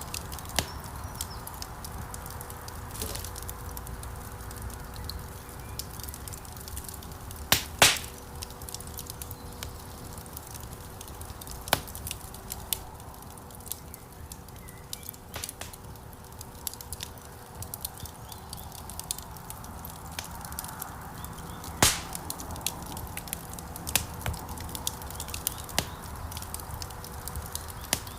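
Wood fire crackling in a fireplace: a steady low rush of flames under scattered small crackles, with a few louder pops, the loudest a quick pair about eight seconds in and another about twenty-two seconds in.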